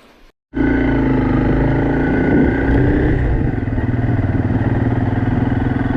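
Motorcycle engine running steadily under way, starting abruptly about half a second in.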